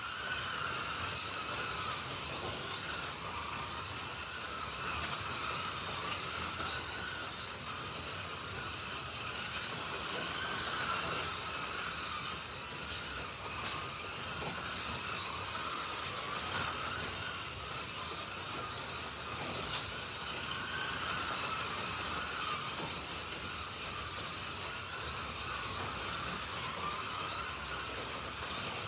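Several 1:32 Slot.it slot cars racing around the track, their small electric motors whining together, the pitch wavering up and down as the cars speed up on the straights and slow for the turns.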